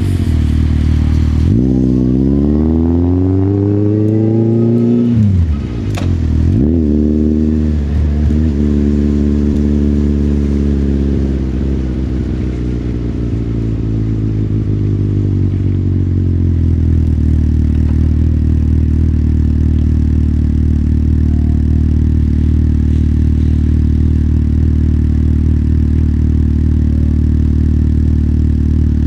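Motorcycle engine pulling away, its pitch rising, then dropping sharply with a click about six seconds in as it shifts gear, rising again and easing off. From about sixteen seconds in it settles into a steady idle.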